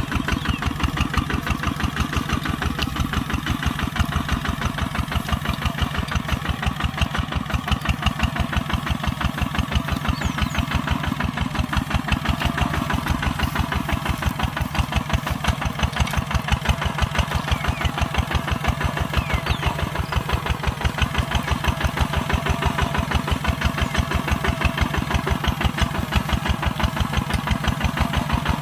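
Kubota tractor's diesel engine running steadily while plowing, with an even, rapid firing beat that holds a constant pace.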